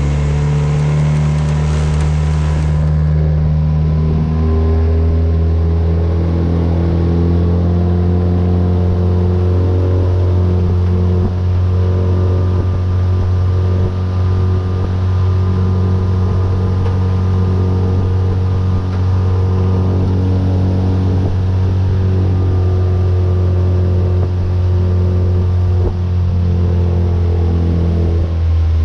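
Tohatsu 9.8 hp four-stroke outboard motor running steadily, pushing a small V-bottom boat along under way.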